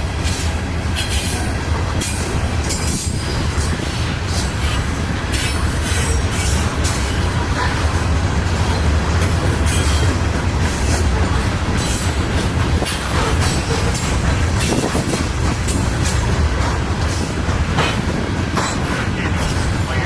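Norfolk Southern freight train rolling past, its cars making a steady low rumble with frequent clicks and clatter from the wheels on the rails.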